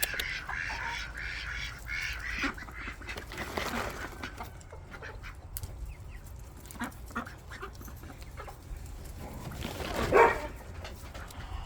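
Ducks quacking in a busy run of repeated calls over the first few seconds, then scattered short clicks and a louder call about ten seconds in.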